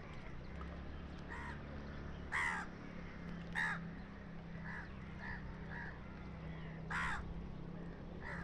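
Crows cawing: three loud harsh caws spaced a second or more apart, with fainter calls between them, over a steady low rumble.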